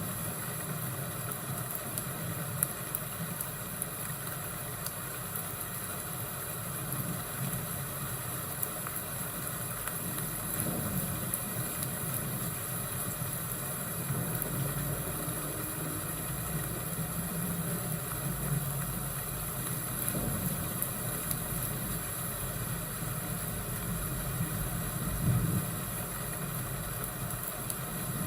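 Thunderstorm-and-fireplace ambience: a steady hiss with a low rumble that swells now and then, and a few faint crackles.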